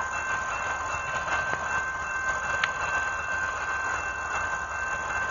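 Freight train approaching in the distance: a steady low rumble with a constant high-pitched ringing tone over it, and a single sharp click about halfway through.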